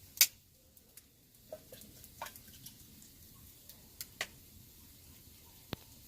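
A few scattered sharp clicks and pops, the first just after the start the loudest, over a faint quiet background.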